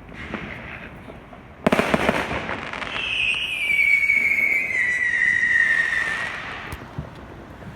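Fireworks: a sudden burst of crackling about a second and a half in, then a long whistle that slowly falls in pitch for about three seconds before fading.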